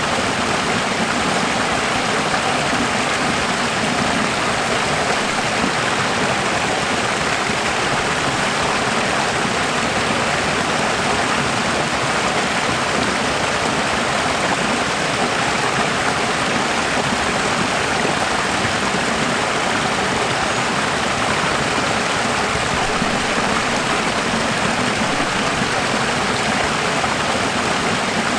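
Running water rushing steadily: an even, unbroken hiss with no separate splashes or drops.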